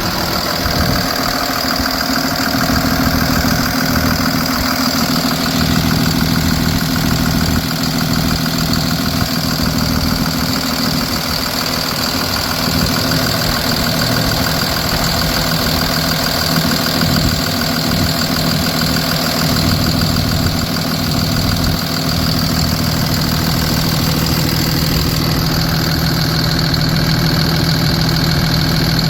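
2009 Cummins ISB 6.7 inline-six turbodiesel engine idling steadily.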